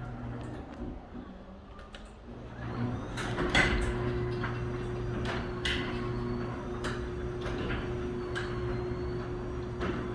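Chamberlain 3/4 horsepower garage door opener starting about three seconds in and running with a steady hum while the 16 by 8 Northwest sectional door travels. Scattered clicks and knocks come from the moving door, the loudest near the start of the run.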